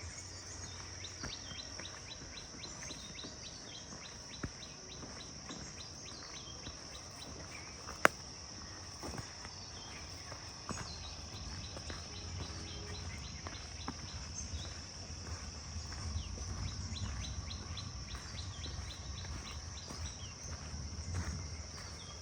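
Birds chirping in runs of quick repeated notes over a steady high insect drone. There is a single sharp click about eight seconds in.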